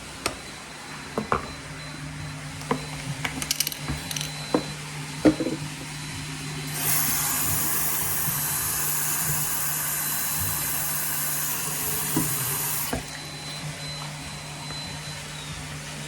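Robot vacuum cleaners running with a steady motor hum, with scattered sharp clicks and knocks in the first half, likely from debris or bumpers. A louder suction hiss comes in about seven seconds in and cuts off sharply about six seconds later.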